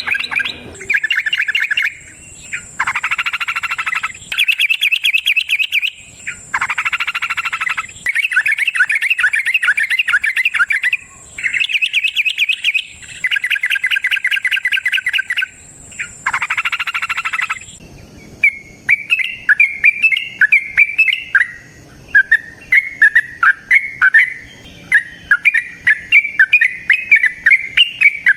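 Yellow-vented bulbul (trucukan) singing its fast rattling 'ropel' song: a string of rapid trilled phrases, each lasting one to two seconds with short gaps between. After about 18 seconds it changes to a denser run of short, quick choppy notes.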